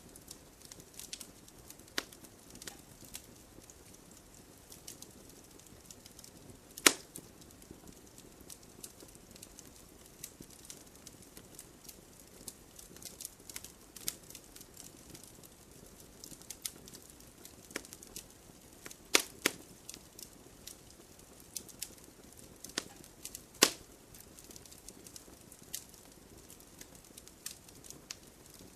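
Wood campfire crackling: many small, irregular snaps over a soft hiss, with a few sharper pops, the loudest about seven seconds in and two more near twenty seconds in.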